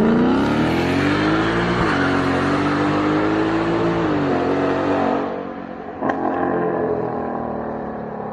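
Ford Mustang GT V8 with a Borla aftermarket exhaust under throttle. The note rises over the first two seconds and holds high, then drops off to a lower, quieter rumble about five seconds in, with a single sharp crack a second later.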